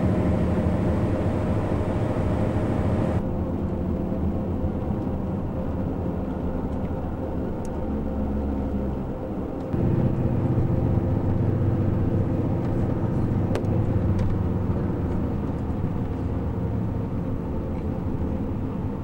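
A steady engine drone with a low hum made of several held tones. Its character shifts abruptly about three seconds in and again about ten seconds in.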